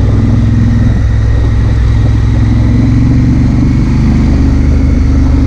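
Honda Africa Twin CRF1000L's parallel-twin engine running steadily while under way, with wind and road noise.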